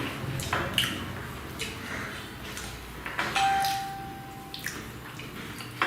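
Wet smacking and chewing sounds of people eating parotta and duck curry by hand, with a single steady beep lasting over a second about three seconds in.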